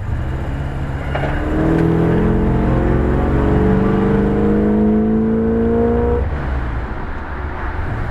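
Chevrolet 350 small-block V8 of a 1962 Biscayne, breathing through Thrush turbo mufflers, accelerating hard, heard from inside the cabin. The engine note climbs steadily in pitch and gets louder for about five seconds, then falls away.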